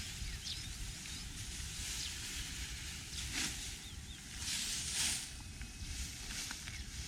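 Wind rumbling on the microphone, with a few short rustling swishes of dry rice straw; the loudest comes about five seconds in.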